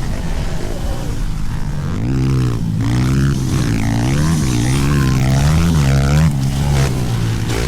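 Small motorcycle engines of pit bikes on a track, revving up and down repeatedly in the middle of the clip over a steady drone of other engines running.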